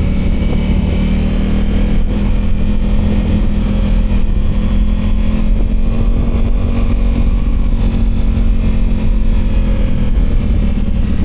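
Motorcycle engine running at a steady, even speed while riding, with wind noise.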